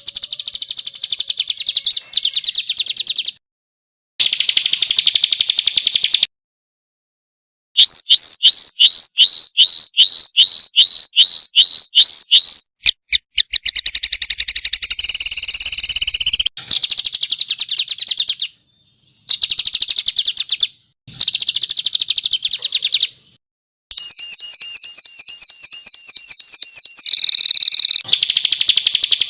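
Small songbirds singing sharp, rapid, high-pitched trilled bursts, including a run of repeated down-slurred notes at about three a second, in short phrases broken by abrupt gaps.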